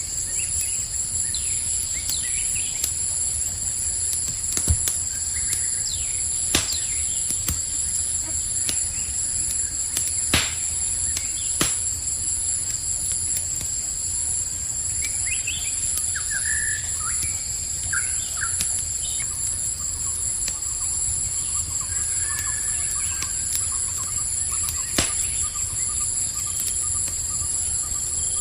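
Campfire crackling with a handful of sharp pops, over a steady high chorus of crickets trilling, with short bird chirps around the middle.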